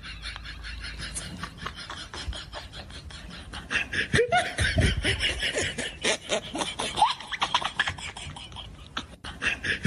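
A person laughing in quick pulses, louder from about four seconds in, with short rising squeaks mixed in.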